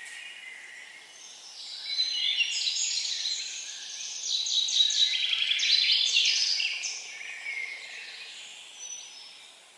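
Songbirds singing, with rapid trills and quick runs of high repeated notes, loudest from about two to seven seconds in, over a faint steady hiss.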